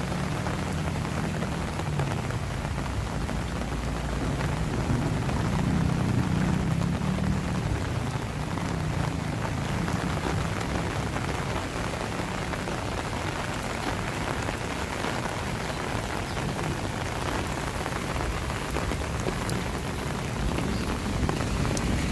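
Steady rain falling on surfaces, with a low hum underneath during the first several seconds.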